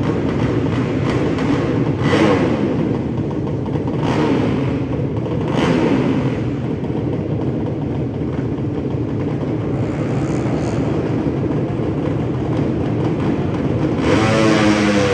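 Drag-race motorcycle engines running loudly, with short rising revs a few times, and one revving hard with climbing pitch near the end.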